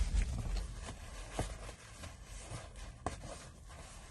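Close-miked chewing and mouth smacking while eating a burger, with a few sharp wet clicks, the clearest about a second and a half in and about three seconds in.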